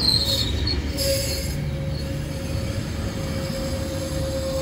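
Metrolink bilevel commuter train rolling past, its steel wheels squealing high for a moment at the start. A low rumble follows, with a steady hum that comes in about a second in.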